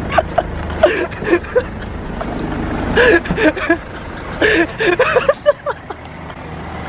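Men's voices talking indistinctly in snatches over the steady low hum of a car engine idling.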